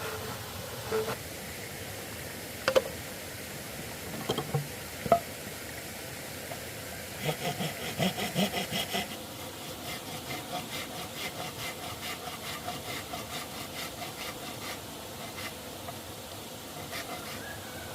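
Hand work on wood: a few sharp knocks, then back-and-forth sawing strokes, quick at first and then slower and fainter.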